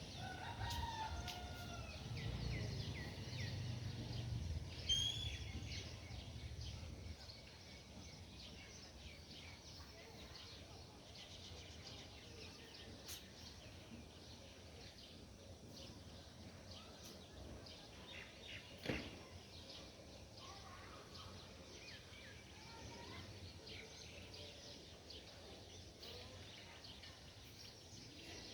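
Birds singing and chirping in a faint morning outdoor ambience, with whistled gliding notes near the start and scattered short chirps after that. A low rumble sits underneath for the first several seconds, and there is a single sharp click about two-thirds of the way through.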